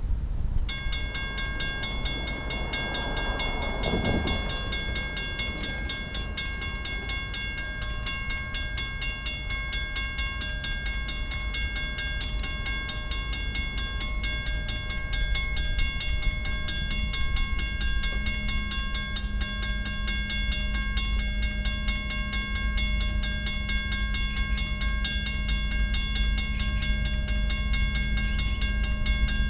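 Freight train led by a GE C44-9W and two EMD SD70ACe diesel locomotives passing, a continuous low rumble. Over it, from under a second in, a grade-crossing bell rings steadily with fast, even strikes.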